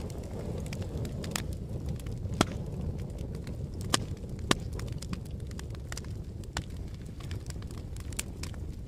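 Fire crackling: a steady low rumble of flames with irregular sharp pops and snaps, the loudest about two and a half and four and a half seconds in.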